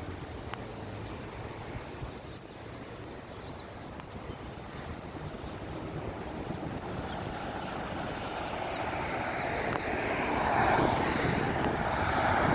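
Street traffic noise, growing louder in the second half as a vehicle approaches and passes.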